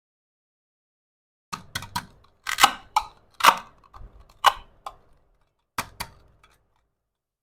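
A run of about a dozen sharp clicks and clacks of small toy kitchen pieces being handled and set down, starting about a second and a half in and ending about a second before the close.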